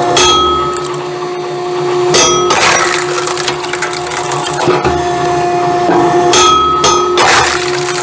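Hydraulic log splitter running with a steady hum whose tone changes twice as the ram works. After each change comes a noisy stretch of wood cracking and splintering as a log round is split.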